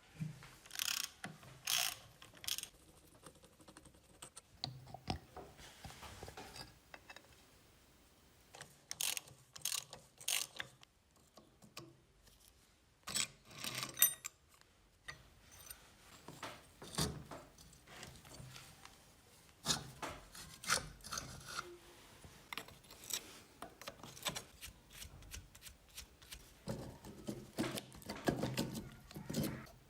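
Workshop hand-tool work on metal motorcycle parts: irregular clicks, clinks and scrapes come and go, with a few short runs of rapid clicking like a ratchet.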